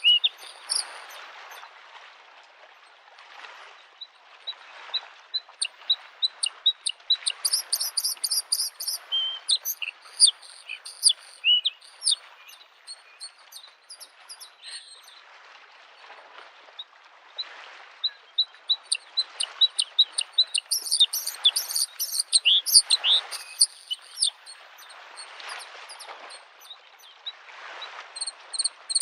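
Bluethroat singing phrases of rapid, varied chirps and trills, broken by short pauses. Under it, small lake waves wash against the shore in soft swells every second or two.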